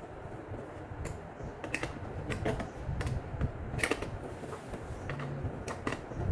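Irregular light clicks and creaks of things being handled, a few sharp ones a second, over a low background rumble.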